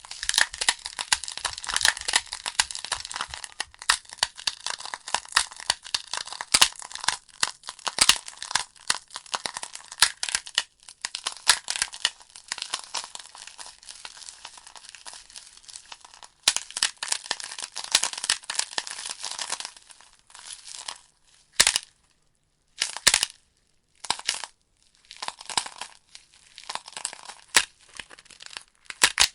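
Wood fire burning in a fireplace: dense crackling and hissing with many sharp pops from the logs. The crackle thins out about two-thirds of the way through, with a few brief near-silent gaps, then picks up again.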